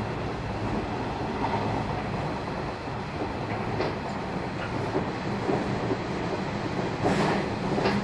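JR 113-series electric train running at speed, heard from inside its KuHa 111 driving trailer car: a steady rumble of wheels on rail with a few sharp clicks from the rail joints, the loudest about seven seconds in.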